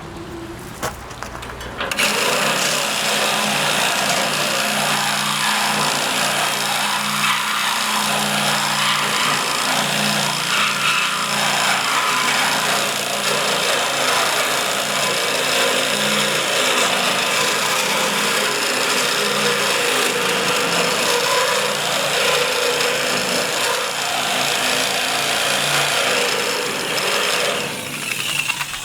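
Power tool running under load on steel pipe, a steady cutting or grinding noise over a motor hum, starting about two seconds in and stopping near the end.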